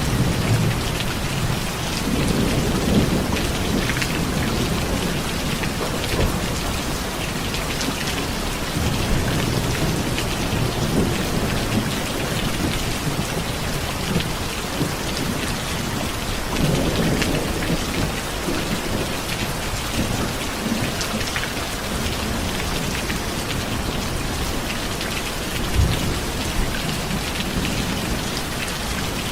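Steady rain, with low rumbles of thunder swelling and fading several times and a short low thud near the end.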